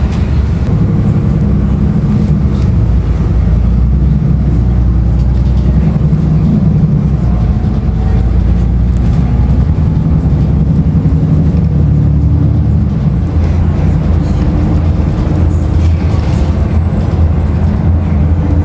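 Cabin sound of a 2016 Nova Bus LFS transit bus under way: its Cummins ISL9 diesel engine and ZF automatic transmission running steadily, with road noise.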